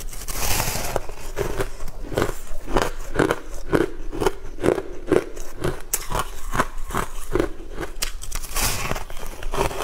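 Close-up eating sounds of a person biting into soft green zucchini cake and chewing it, about two chews a second. A fresh bite comes a fraction of a second in and another near the end.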